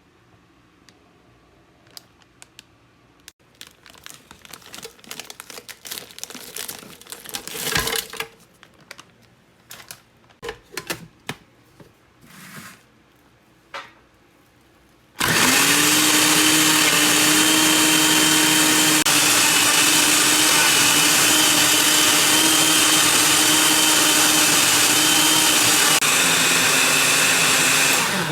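Countertop blender blending berries and banana into a smoothie: after some clicks and clatter of handling, the motor starts suddenly about halfway through, spins up at once and runs loud and steady for about thirteen seconds, then cuts off near the end.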